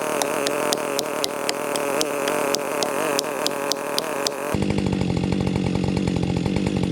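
Husqvarna two-stroke chainsaw running at high revs, with regular ticks about four a second. About two-thirds of the way through, it changes abruptly to a lower, pulsing idle.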